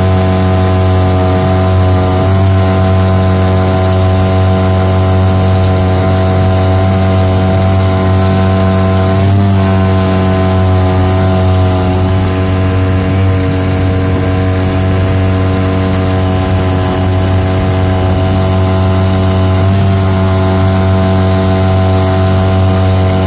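Boat motor running steadily at constant speed, a loud, even drone with brief small wobbles in pitch about 2, 9 and 20 seconds in.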